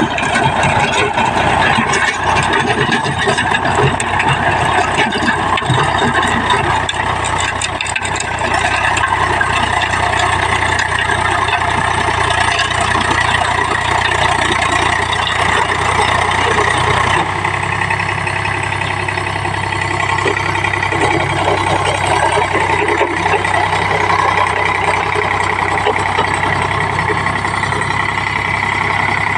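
Eicher tractor's diesel engine running steadily, its note changing about two-thirds of the way through.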